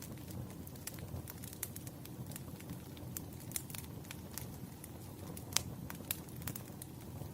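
Crackling bonfire: a steady low rumble of burning with irregular sharp pops and snaps, one louder pop about five and a half seconds in.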